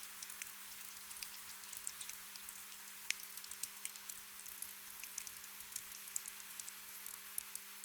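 Gentle rain: a steady soft hiss with many scattered, irregular drop ticks, over a faint steady low tone.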